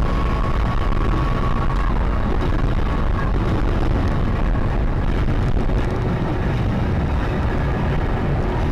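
Steady low rumble of a car driving, with road and engine noise and no impacts. A faint steady whistle fades out about two seconds in.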